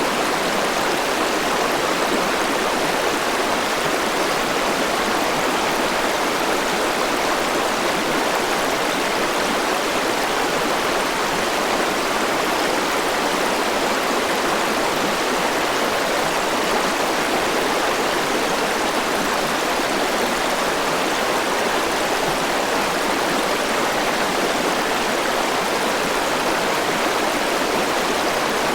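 River water rushing and flowing over rocks in a steady, unbroken rush.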